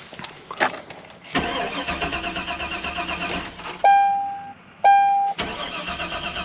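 A Chevy's starter cranking the engine in two runs of about two seconds each, with an even rhythmic pulse, without the engine catching. Two short chime tones ring and fade between the runs. It is a crank-but-no-start, which the owner traces to a bad wiring connector pigtail.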